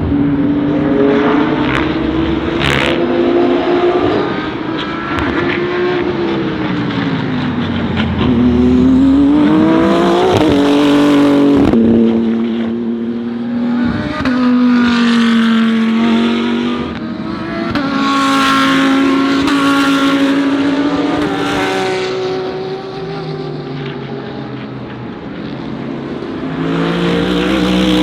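GT3 race cars going past at racing speed one after another, engines rising and falling in pitch through gear changes, each pass swelling loud and then fading.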